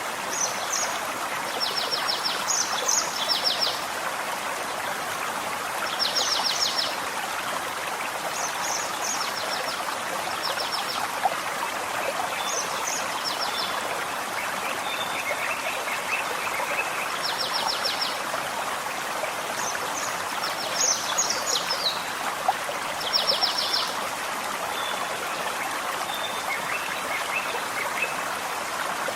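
Gentle forest stream running steadily, with songbirds breaking in every few seconds with short, high, rapid trills and chirps.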